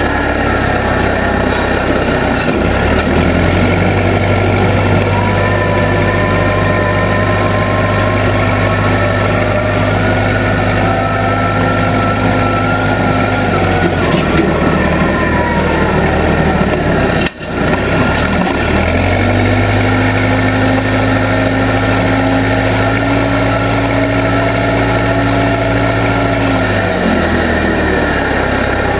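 Case 580B backhoe's engine running steadily, pitch stepping up under load a couple of seconds in and dropping back about halfway, then up again for most of the second half, with a higher whine rising and falling. The sound cuts out for a split second just past halfway.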